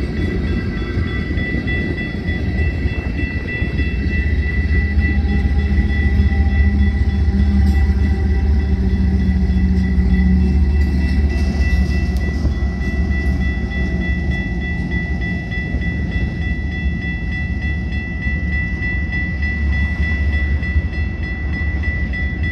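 Union Pacific freight train of loaded rock hoppers rumbling through a grade crossing. A diesel locomotive at the rear of the train swells and passes about twelve seconds in. Over this, the crossing's warning bell gives a steady high ring.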